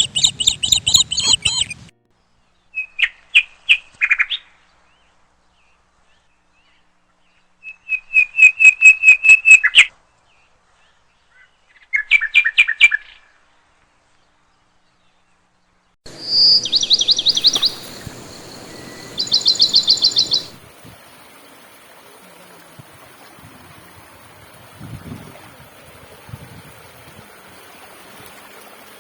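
Bird trills, each a quick run of repeated high notes lasting one to two seconds, come several times with complete silence between them. About two-thirds of the way in, the steady rush of a flowing stream starts, with two more trills over it, and then the water runs on alone.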